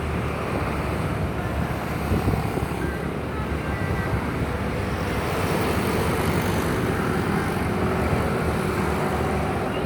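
Steady low engine rumble of the passenger ship KM Uki Raya 23 underway as it comes into port, with a faint steady hum above it.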